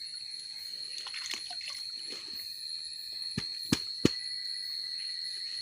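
Crickets chirring steadily in the night forest, a continuous high-pitched drone. A little past the middle come three sharp knocks in quick succession.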